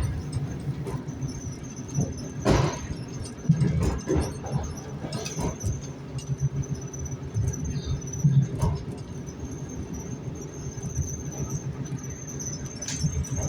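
Sound inside an ED4M electric train: a low rumble with a steady high-pitched squeal running over it, and a few sharp clicks.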